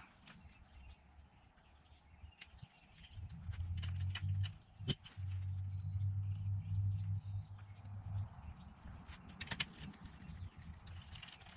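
A few sharp clicks or knocks, with faint bird chirps in the background and a low rumble in the middle.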